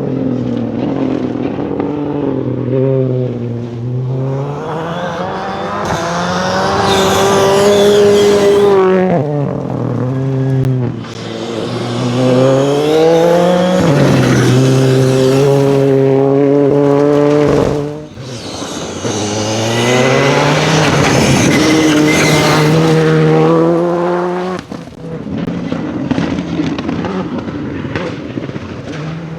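Rally car engine revving hard on a gravel forest stage, its pitch climbing and then dropping sharply at each gear change, about half a dozen times.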